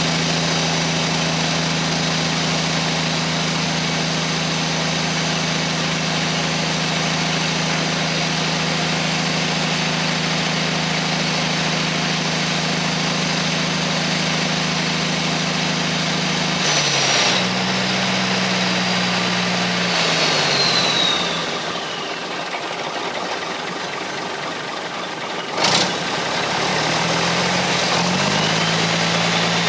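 Mack R600 truck's diesel engine running at raised revs to drive the tipper hydraulics, with a faint whine that follows the revs. About 17 seconds in the revs drop away with a click and stay low. A sharp clack comes near the end, and then the revs rise again.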